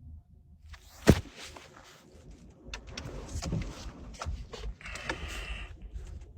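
A car door shutting with a sharp thump about a second in, followed by rustling and handling noises and a short whirr about five seconds in.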